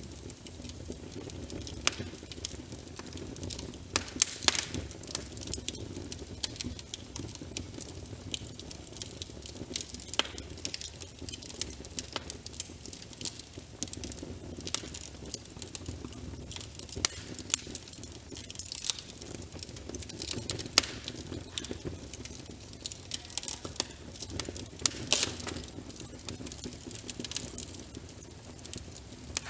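Wood fire crackling, with many sharp, irregular snaps and pops, over a steady low rumble and the patter of rain.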